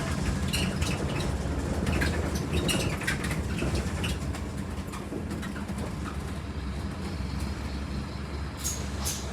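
Scania N230UD Omnicity double-decker bus heard from the upper deck: the diesel engine runs with a steady low hum while the bodywork and fittings give off scattered light rattles and clicks.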